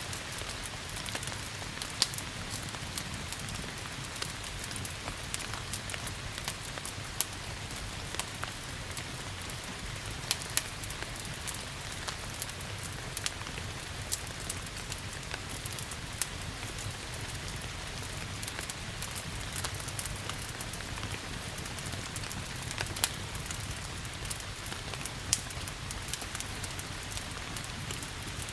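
Steady rain with a wood fire crackling over it: frequent small crackles and a handful of louder pops.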